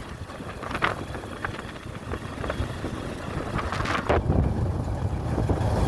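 Wind rumbling on the microphone, with a few brief clicks.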